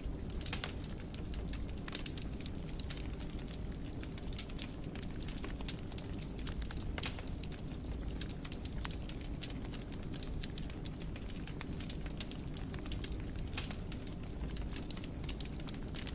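Wood fire burning in a fireplace, with many sharp irregular crackles and pops over a low steady rumble of the flames.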